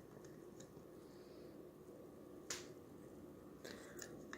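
Near silence with a few small clicks: one sharp click about halfway through and several fainter ones near the end, as small parts are handled while fitting the generator onto a model Stirling engine.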